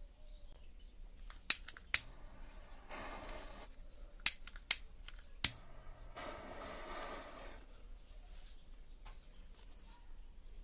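Five sharp pops and two short fizzing hisses, the longer one lasting about a second and a half: matchsticks flaring and fizzing as a matchstick chain reaction burns along.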